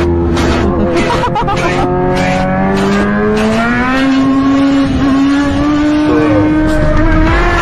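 Sport motorcycle with a full-system aftermarket exhaust running at high revs, its pitch climbing slowly and then holding, over music with a steady beat.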